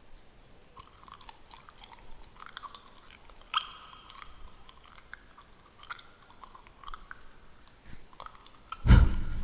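Close-miked fingernails scratching through a beard: faint, rapid scratchy crackles. Just before the end a single loud, deep thump, like the microphone being bumped.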